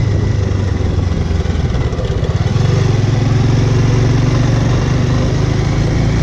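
Bajaj Avenger cruiser's single-cylinder engine running under way, heard from the rider's seat; it dips briefly about two seconds in, then pulls louder and steadier.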